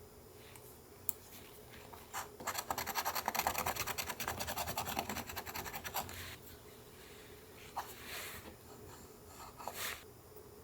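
Rapid scratching on paper, a quick run of strokes lasting about three and a half seconds from about two seconds in, followed by a few soft paper rustles and light clicks.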